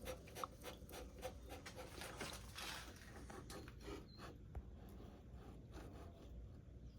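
Faint handling sounds: light clicks and rubbing of metal parts as a valve-seat stone dresser is adjusted by hand.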